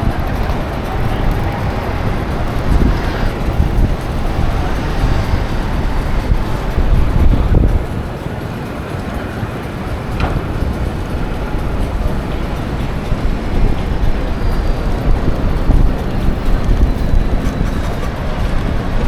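City street traffic heard from a moving bicycle, under a heavy, uneven low rumble.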